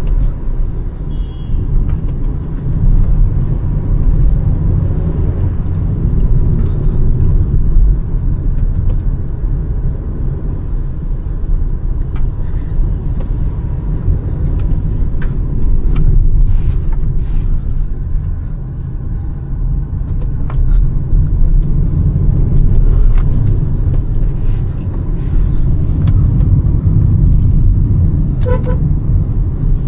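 Hyundai Verna's 1.5-litre turbocharged four-cylinder petrol engine and road noise, a steady low rumble while driving. A car horn sounds briefly near the end.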